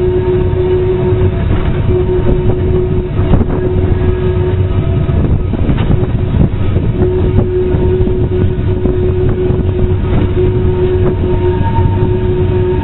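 A steam-hauled freight train running on jointed track, heard from the brake van right against the locomotive, ex-LSWR Beattie well tank 30587: a steady heavy rumble of wheels on rail with scattered clicks at the rail joints. A steady humming tone runs through it, dropping out briefly a few times.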